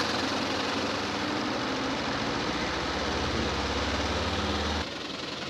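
Spin-dryer tub of an Innovex DSAN-65 semi-automatic washing machine spinning the washed clothes, with a steady motor hum and whirr. About five seconds in the motor cuts off as the spin timer runs out, leaving a quieter whir.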